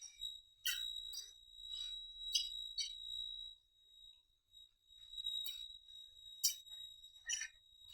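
Close-up wet chewing and lip-smacking of someone eating rice and duck meat, a smack every half second to a second with short pauses, over a steady high-pitched whine.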